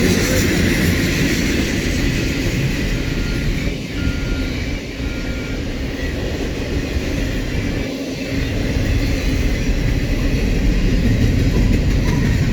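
Norfolk Southern intermodal freight train rolling past: a steady, loud rumble of steel wheels on rail, with a few short high squeals about three to six seconds in.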